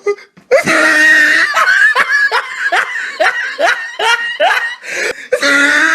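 A person laughing loudly in a fast run of short 'ha's, each rising in pitch, about three a second.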